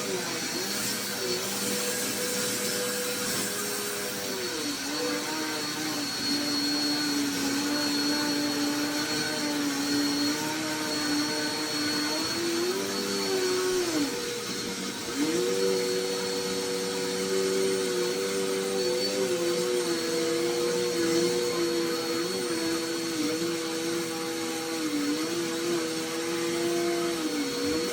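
Vacuum cleaner running, its motor hum wavering in pitch, with a brief dip in pitch and loudness about halfway through.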